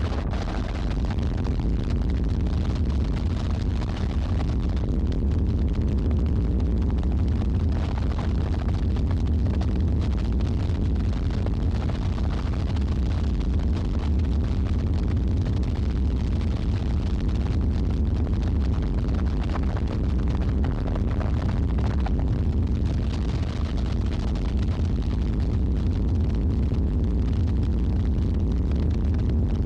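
A steady, loud low rumble with no distinct events, unchanging throughout.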